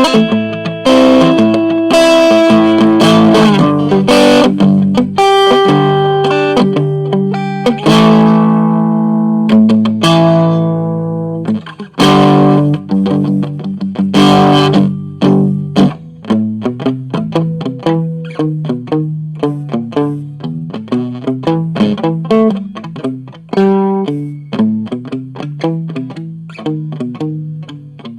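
Cheap Stratocaster-copy electric guitar played through a no-name amplifier in a heavy reggae style. Held, ringing chords fill the first half; from about halfway the playing turns to short, choppy strokes.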